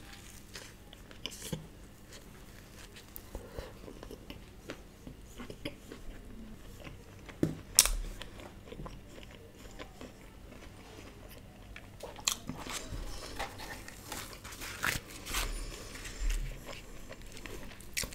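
Close-up chewing and biting of a soft stuffed chilla, a savoury Indian pancake filled with vegetables, eaten by hand: wet mouth sounds and soft crunches. A few sharper clicks stand out, the loudest about eight seconds in.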